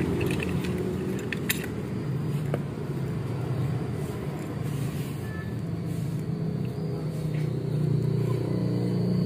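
Steady low engine rumble, with a few light clicks about half a second and a second and a half in.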